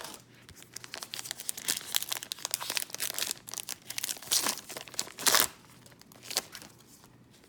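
Trading-card pack wrapper crinkling and tearing as the pack is ripped open, with two louder rips a little past the middle.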